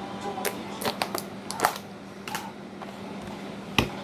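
Scattered light clicks and taps from the recording phone being handled and set down on its stand, with one sharper knock near the end, over a steady low hum.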